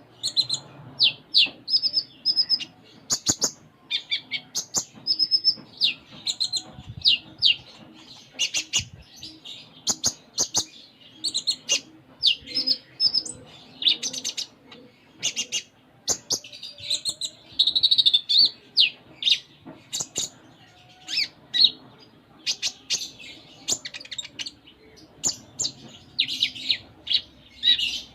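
Sunbird (kolibri ninja) singing vigorously: a continuous stream of rapid high chirps, trills and short sweeping twitters.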